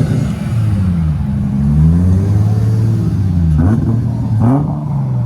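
Loud car engine revving up and down repeatedly, its pitch rising and falling several times, with two quick sharp blips of the throttle about three and a half and four and a half seconds in.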